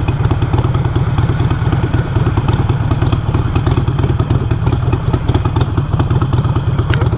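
Harley-Davidson Iron 883's V-twin engine running steadily under way, a fast even pulsing rumble.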